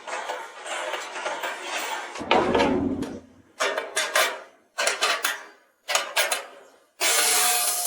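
A heavy thump a little over two seconds in, then a series of short, separate clatters and scrapes about a second apart.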